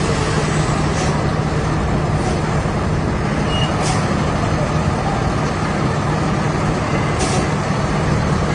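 Street traffic noise with the steady low engine rumble of an idling heavy vehicle. Short hisses come through three times.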